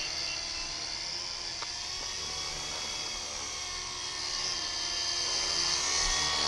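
WLtoys V912 RC helicopter's small electric motor and rotor running in flight: a steady high-pitched whine that gets somewhat louder near the end.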